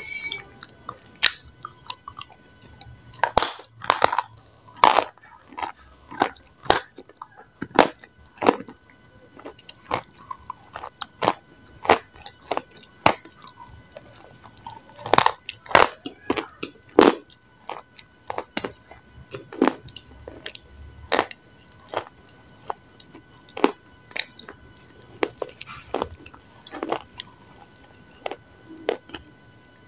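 Close-miked crunching and chewing of a crumbly, chalky white lump: irregular sharp crackles as it is bitten and broken between the teeth, sometimes several in quick succession, with short pauses between bites.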